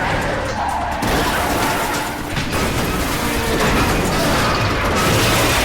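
Car-chase crash sound effects: dense, loud crashing and grinding of metal throughout, with the film's score faintly underneath.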